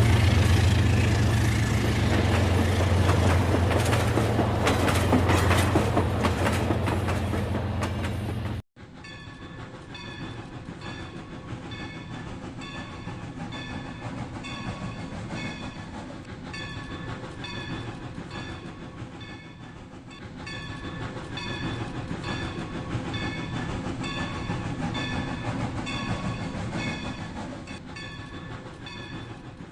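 Rail King battery-powered toy train running on its plastic track, loud with a low motor hum at first; after a sudden cut about a third of the way in it is quieter, with evenly repeating clicks of the wheels over the track.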